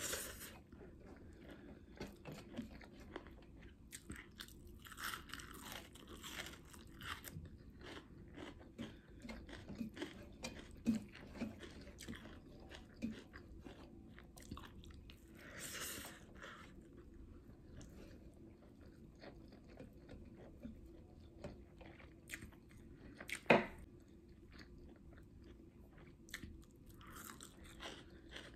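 Close-miked chewing of a mouthful of rice and pork, with soft wet mouth sounds and small crunches. There is one sharper, louder click about three quarters of the way through.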